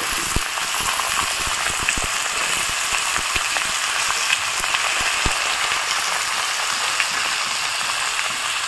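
Raw green banana and potato pieces frying in hot mustard oil in a kadai: a steady sizzle. Soft low knocks come over roughly the first five seconds as more banana pieces drop into the pan.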